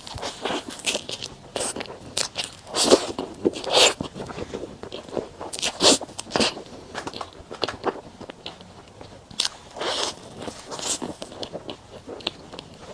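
Close-miked eating sounds of someone eating soft matcha desserts: chewing and wet mouth smacks, irregular, with louder clusters about three to four seconds in, around six seconds and around ten seconds.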